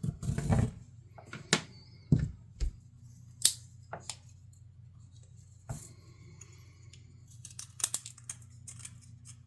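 Scattered light clicks and taps of small items being picked up and set down on a workbench, a little cluster of them near the end, over a faint steady low hum.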